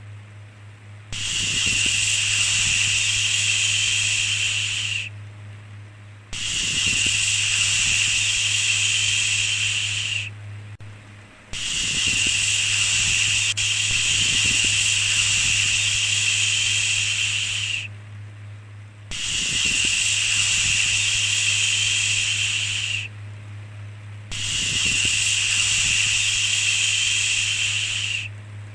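Repeated 'shhh' shushing sound: five long hissy bursts of about four to six seconds each, broken by short pauses of about a second, over a steady low hum.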